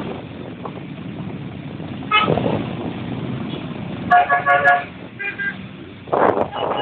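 Vehicle horns tooting in short beeps over the steady rumble of a moving motorbike, with a run of about four quick beeps around four seconds in and single short toots before and after it.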